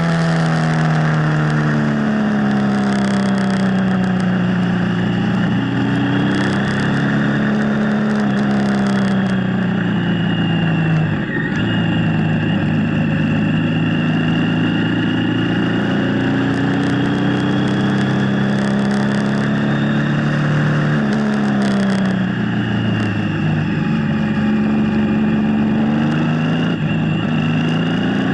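Motorcycle engine running under way on a mountain road, its note rising and falling with the throttle and dipping sharply twice. A steady rush of wind noise runs underneath.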